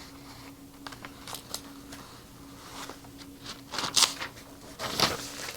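Quiet room tone with a steady low hum, broken by scattered soft clicks and two louder brief rustling, breathy noises about four and five seconds in.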